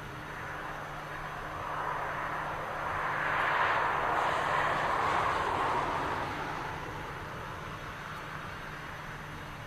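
An airplane passing by: its engine noise swells to a peak about four seconds in, then fades away.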